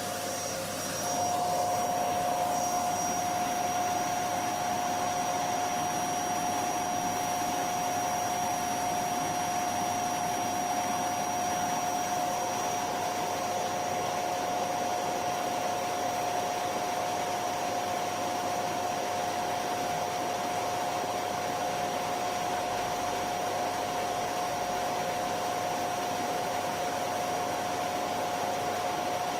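Vacuum cleaner motor running steadily, with a constant whine over a rush of air; about a second in it steps up slightly in pitch and loudness, then holds steady.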